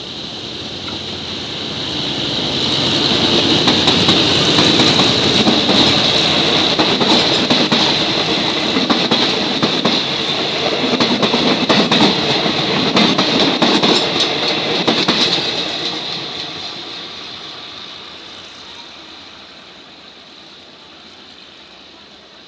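Passenger train rolling past close by as it pulls out of the station, its wheels clicking over rail joints with a steady high-pitched hiss. The sound builds over the first few seconds, holds, then fades from about 15 seconds in as the train moves away.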